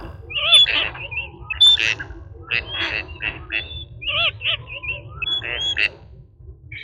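A bird squawking in short, harsh, repeated calls, about a dozen of them, over a low steady rumble.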